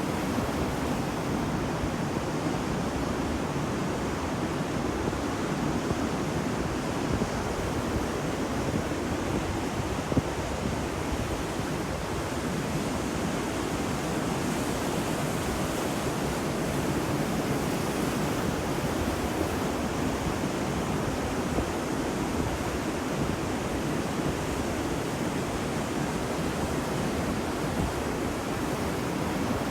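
Ocean waves washing on a beach, a steady rush of surf with no single break standing out. There is one brief sharp spike about ten seconds in.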